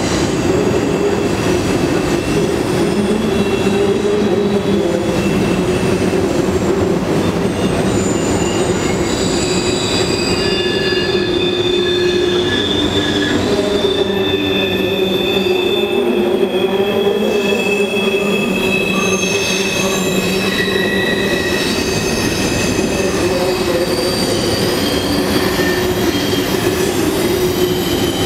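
Freight train's covered hopper cars rolling across a steel trestle bridge: a steady, loud rumble, with high squealing tones from the steel wheels starting and fading again and again.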